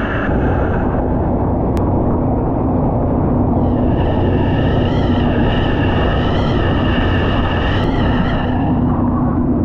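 Jet ski engine running at speed under load: a steady hum with a higher whine that wavers in pitch from about four seconds in until near the end.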